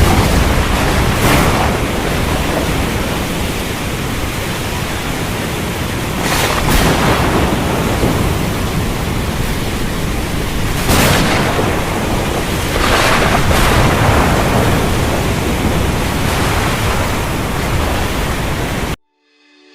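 Sea surf: a loud, continuous wash of breaking waves with a heavy low rumble, swelling several times as bigger waves break. It cuts off suddenly near the end.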